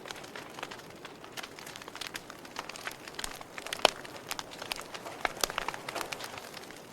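Wood fire crackling in a fireplace: irregular snaps and pops over a soft steady hiss, with one louder pop about four seconds in.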